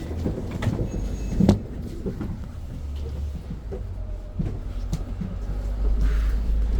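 Inside a moving BYD BD11 electric bus: a steady low road rumble with scattered knocks and rattles from the body, the sharpest about a second and a half in. The rumble grows a little louder near the end.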